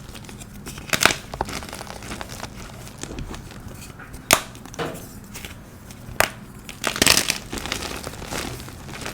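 Blocks of dyed, pasted gym chalk being crushed: a few sharp crunches, about a second in, past four seconds, past six and a quick cluster near seven, with fine crumbling crackle between.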